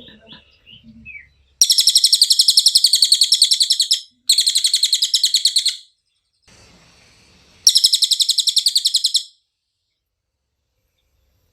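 Cililin songbird singing three loud, high-pitched trills of fast repeated notes, each lasting about one and a half to two and a half seconds, with short pauses between them.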